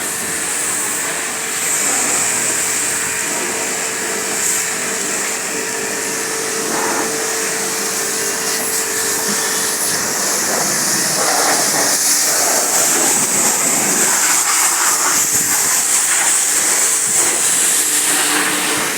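Water jet spraying over a car's engine bay: a steady, loud hiss of spray, with a steady hum underneath that fades out about halfway through.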